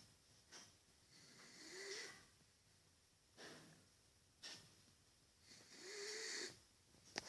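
A sleeping beagle snoring faintly: two drawn-out snores about four seconds apart, each with a whistling note that rises and falls, and short breaths between them. A sharp click near the end.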